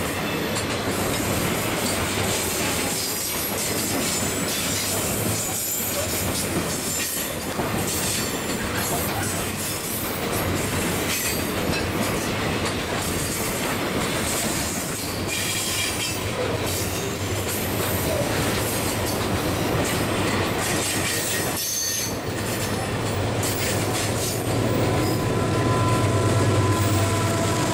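Long freight train of hopper wagons rolling past close by: steady wheel-on-rail rumble with repeated clicks over the rail joints and high screeching from the wheels. About 24 seconds in, the diesel locomotive at the tail of the train passes, and its engine drone rises and grows louder.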